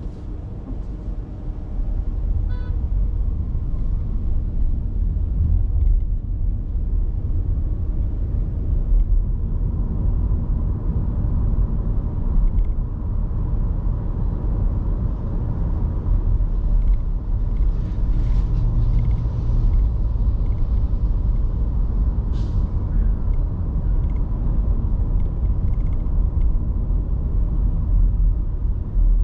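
Steady low rumble of a car driving on a road, engine and tyre noise, growing a little louder about two seconds in. A brief high-pitched sound cuts through about twenty-two seconds in.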